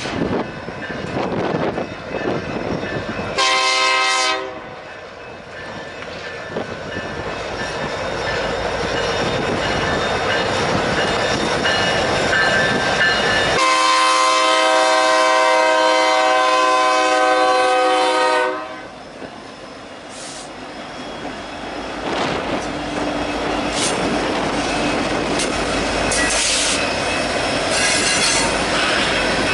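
Locomotive air horn sounding a short blast and then a long blast of several steady tones together, while a freight or passenger train rolls by with wheels clacking over the rail joints. Brief high wheel squeals come near the end.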